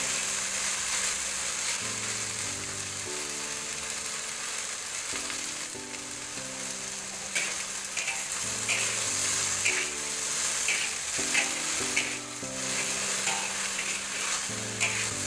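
Sliced okra sizzling in a hot metal wok while a metal spatula stirs it, with short scrapes of the spatula against the pan coming repeatedly from about halfway through.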